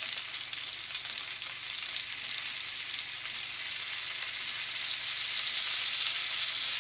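Orange-marinated chicken sizzling on an oiled pan grill over low heat, a steady hiss of frying.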